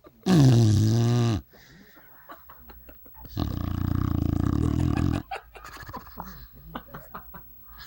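Sleeping dog snoring loudly: a short snore that drops in pitch, then, about three seconds later, a longer, low, buzzing snore lasting nearly two seconds.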